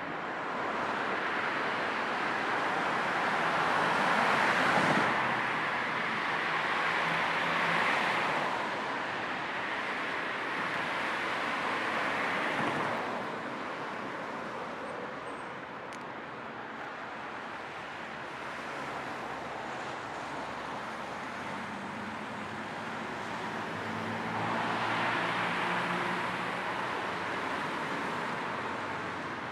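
Car driving on the road: steady tyre and road noise with a low white noise under it, swelling louder twice, with a faint engine hum beneath.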